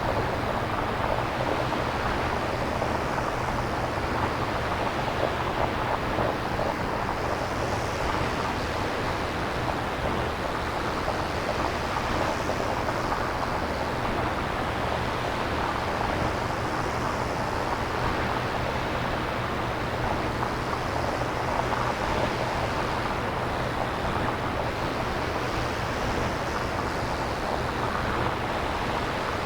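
Synthesizer-generated nature ambience: a steady wash of noise like surf or wind, with slow gentle swells every few seconds over a steady low rumble.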